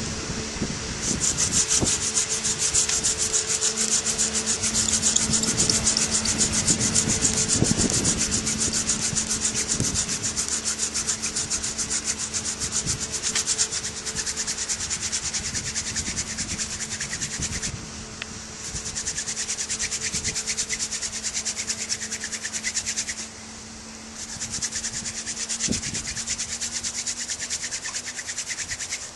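Hand-drill fire lighting: a staghorn sumac spindle spun back and forth between the palms, grinding into a trumpet creeper hearth board. It makes a fast, rasping wood-on-wood rub that stops briefly twice, about two-thirds of the way through and again near the end.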